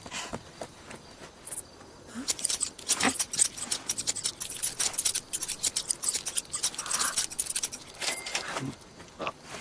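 A quick, uneven patter of light clicks and taps, cartoon footstep sound effects of small hooves, starting about two seconds in and running on for most of the stretch.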